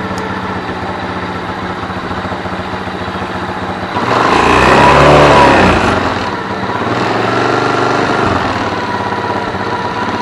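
Cub-type motorcycle's Chinese-made single-cylinder four-stroke engine idling through its exhaust, blipped once about four seconds in so it revs up and drops back, then given a smaller blip near eight seconds before it settles back to idle.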